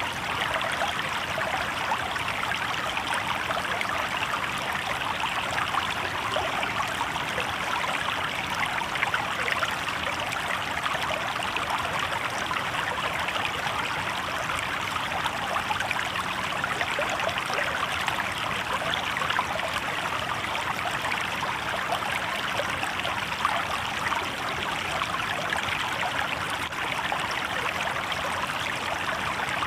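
Shallow river water babbling and trickling over stones, a steady, even rush.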